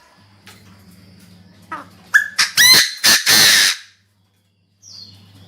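Chinese francolin giving its loud, harsh territorial call: a few short rising notes, then a dense raucous burst lasting over a second. A faint steady electrical hum lies underneath.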